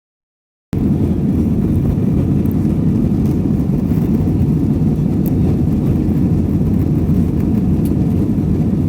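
Steady low rumble of airliner cabin noise, the engines and airflow heard from inside the passenger cabin, starting abruptly just under a second in.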